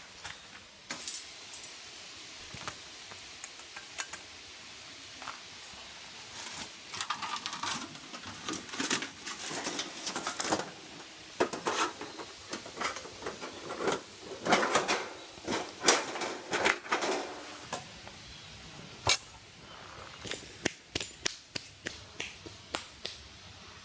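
Metal camping gear being handled: irregular clinks and clatters mixed with scraping and rustling, busiest through the middle.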